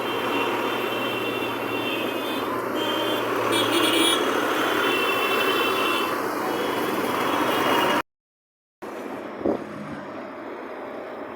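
Steady street and vehicle noise, with a high tone sounding on and off over it. It stops abruptly about eight seconds in, and a quieter stretch follows.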